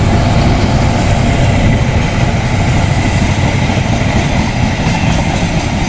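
Passenger coaches of a train running past close by: a steady, loud rumble and rush of steel wheels on the rails.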